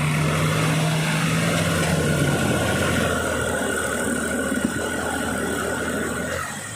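Tractor diesel engine running, with a steady low note that shifts about two seconds in.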